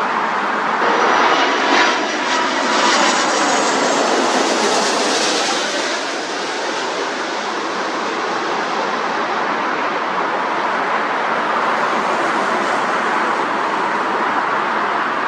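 Jet airliner's engines passing, a whine falling in pitch as it goes by during the first few seconds, then a steady, slightly quieter noise.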